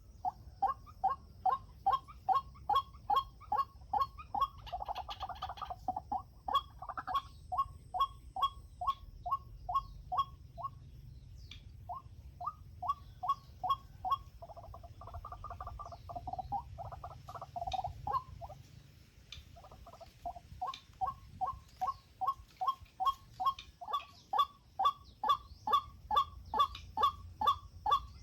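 White-breasted waterhen calling: a long run of short, evenly repeated notes, about two or three a second. The run pauses briefly twice and blurs into a more continuous stretch for a few seconds in the middle.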